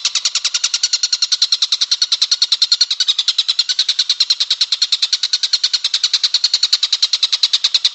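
Tengkek buto kingfisher calling in a fast, unbroken chatter of short high notes, about ten a second, with no pause. It is a non-stop birdsong tutoring track (masteran) for training cage songbirds.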